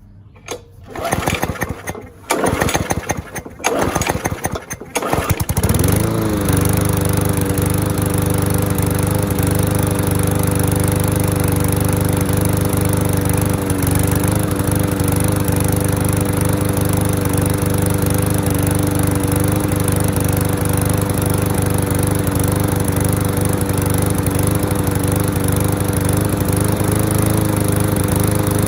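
MTD Yard Works lawn mower's small engine being cranked over several times with irregular sputters, catching about six seconds in and then running steadily. It runs at an engine speed raised by bending the tab, which had been sounding a little slow.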